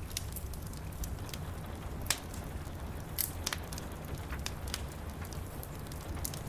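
Wood fire crackling in a fireplace, with irregular sharp pops, the loudest about two and three seconds in, over a steady hiss of rain and a low rumble.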